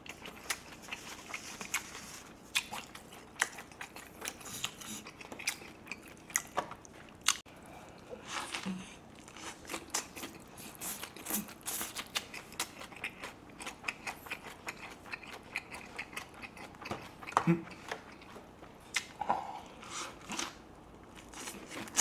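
Close-up chewing and biting of a tortilla wrap filled with chicken and fresh salad vegetables: a dense, irregular run of sharp little mouth clicks and crunches.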